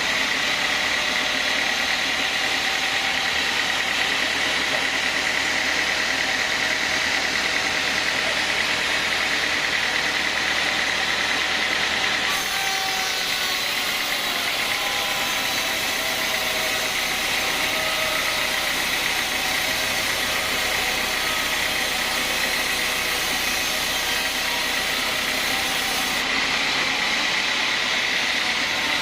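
Band sawmill running and cutting a teak log: a loud, steady saw noise with a high whine, changing in tone about twelve seconds in and again near the end.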